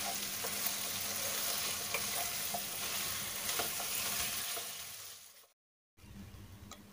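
Raw chicken pieces sizzling in hot soybean oil with onion and ginger-garlic paste in a karahi, a spatula stirring them with small scrapes and taps. The sizzle fades about four and a half seconds in and cuts to silence.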